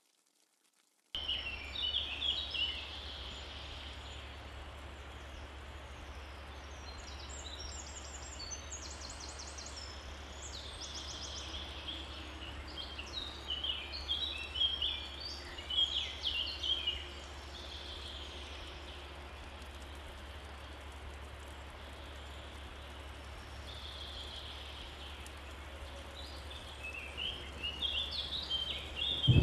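Birds chirping and calling over a steady hiss of outdoor background noise, starting about a second in.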